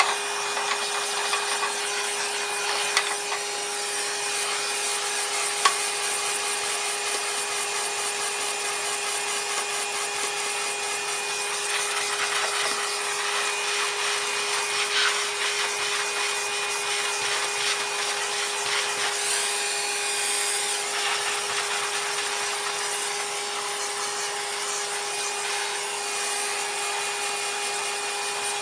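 Numatic cylinder vacuum cleaner running steadily, with a constant motor whine over a rushing suction hiss. Two sharp clicks come about 3 and 6 seconds in.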